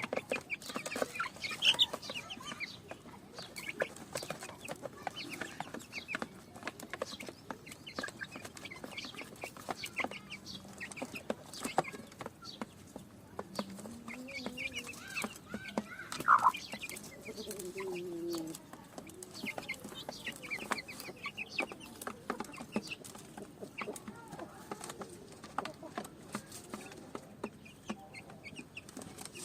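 Mother hen clucking while her chicks peep, many short high peeps throughout, with a couple of louder calls about two seconds in and again midway.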